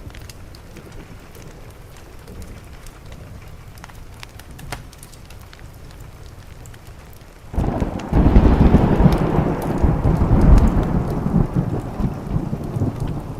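Steady rain with scattered small ticks, then a little over halfway a thunderclap breaks in suddenly and rumbles loudly, slowly dying down.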